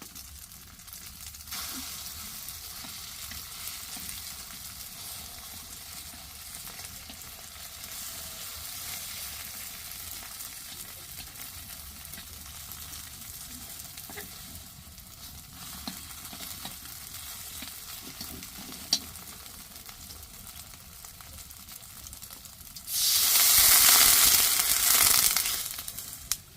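Spring rolls sizzling as they cook in hot oil, a steady high hiss with occasional stirring, swelling into a much louder sizzle for about three seconds near the end.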